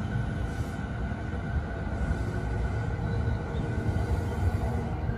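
JR 209 series electric commuter train pulling out of the station, with a steady low rumble of wheels on the track and a thin, steady motor whine above it.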